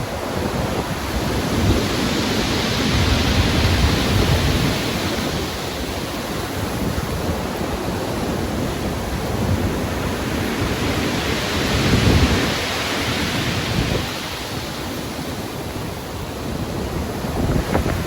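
Rough ocean surf in a storm: two big waves break and wash in about eight seconds apart, over a constant low rumble of the sea.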